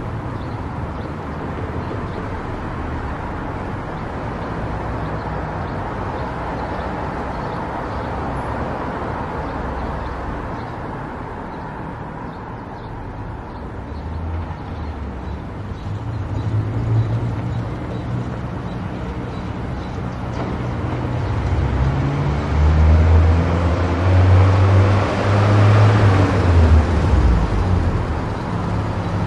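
Car driving on an expressway: steady road and engine rumble with tyre noise. It grows louder in the second half, with a rushing swell near the end.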